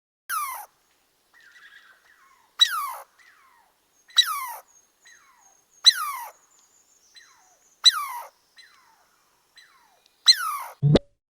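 Squirrel chirping: six sharp calls, each falling steeply in pitch, about every one and a half to two seconds, with fainter calls between them. A brief low thump comes near the end.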